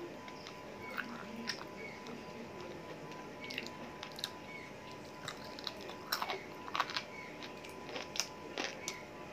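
Close-up mouth sounds of a person chewing and biting chicken leg meat: small wet clicks and crunches come irregularly, thickest and loudest about six to seven seconds in.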